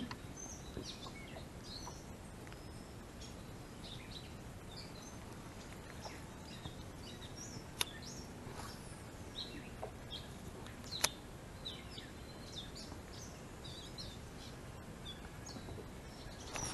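Songbirds chirping and singing at intervals over a quiet, steady background hiss, with two sharp clicks a few seconds apart around the middle.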